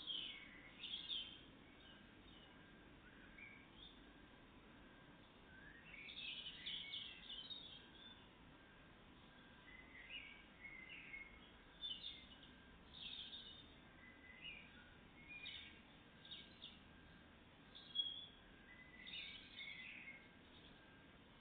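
Faint songbird calls and song: short high chirps in clusters every second or two, over a steady background hiss.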